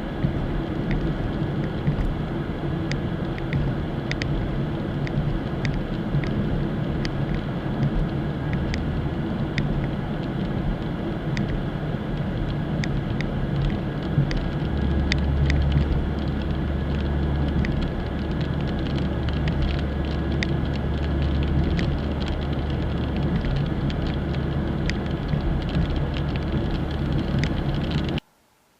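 Car driving, heard from inside the cabin: a steady engine and road hum with scattered light ticks of raindrops hitting the car. It cuts off suddenly near the end.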